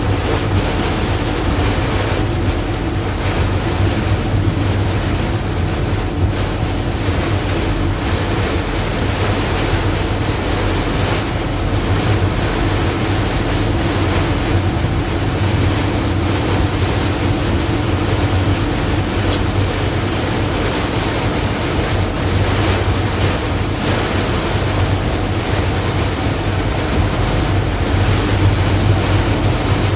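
Heavy rain falling steadily, a dense even hiss that does not let up, with a steady low hum beneath it.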